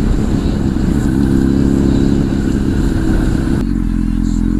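Honda CBR1000 inline-four with a Two Brothers exhaust, running at a steady engine speed under way, heard from the rider's helmet over a rushing hiss. About three and a half seconds in, the hiss drops away suddenly and the engine note carries on.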